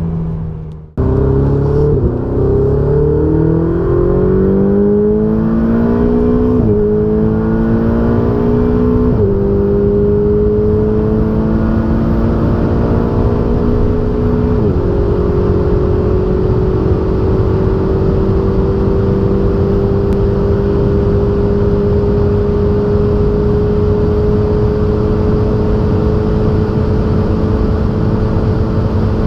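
Sports car engine accelerating hard through the gears: the pitch climbs, drops sharply at three upshifts, then holds steady at high revs for the rest of the run.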